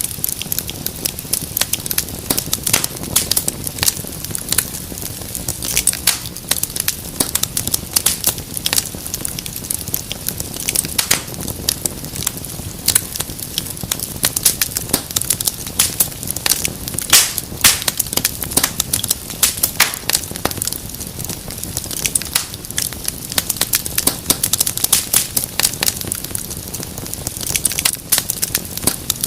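Wood fire crackling and popping in a fireplace: a dense, irregular patter of sharp snaps over a low steady rustle of flame, with a few louder pops along the way.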